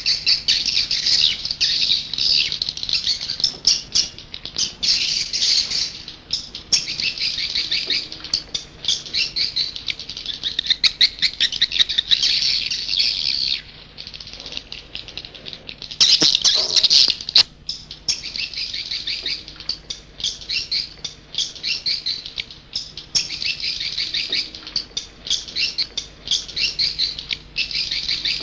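Swiftlet lure recording: a flock of swiftlets giving dense, rapid chittering trills, used to draw swiftlets to a nesting house. The chittering thins out briefly about halfway, then comes back with a louder burst.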